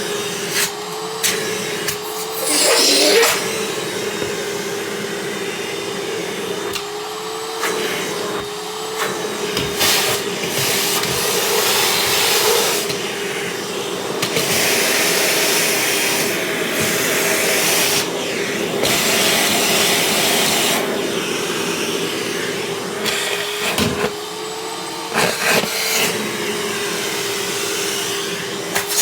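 Vacuum cleaner running steadily, a constant motor whine under a hiss of suction that swells and dips. A few brief knocks or clatters come through along the way.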